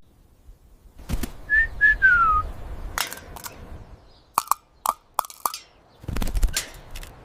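A few short whistle-like chirps, the last one falling in pitch, scattered among sharp clicks and knocks, followed by a brief rustling noise near the end.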